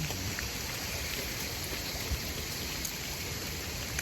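Bacon sizzling steadily in a cast iron pan over a campfire, an even hiss with a few faint ticks.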